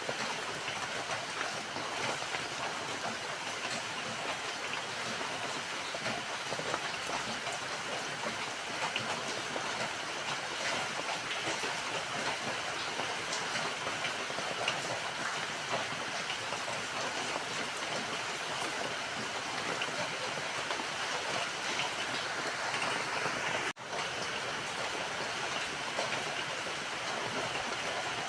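Steady rain falling, an even hiss of many small drops, with a momentary dropout in the sound near the end.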